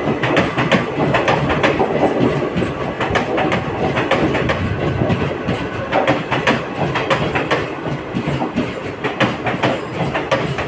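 Passenger express train running, its wheels clattering over the rail joints in quick, uneven clicks over a steady rumble.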